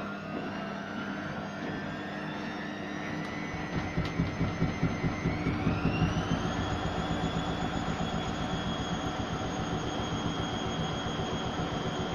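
Zanussi ZWH7148P washing machine speeding up into a spin: the motor whine rises in pitch and then holds steady. About four seconds in, a rhythmic knocking comes in at about four or five knocks a second and quickens as the drum speeds up. The knocking is the fault the owner is recording.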